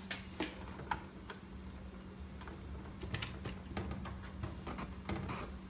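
Irregular light clicks and taps, scattered a few to the second, over a steady low hum.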